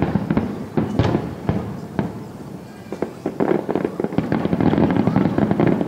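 Aerial fireworks going off in a rapid barrage: sharp booms and bangs start suddenly and come faster and denser in the second half, into a thick run of crackling reports.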